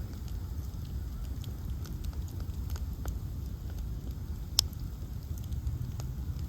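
Ash-log bonfire burning with a steady low rumble of flames and scattered sharp crackles, one louder pop about four and a half seconds in.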